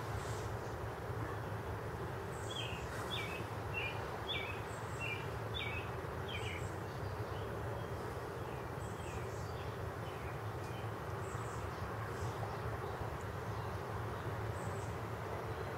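A small bird giving a series of short chirps, about two a second, a few seconds in and fading out about ten seconds in, over a steady low outdoor background noise.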